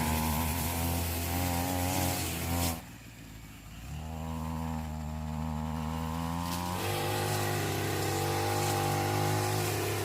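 A small petrol engine running steadily; it drops off sharply about three seconds in and picks back up a second later.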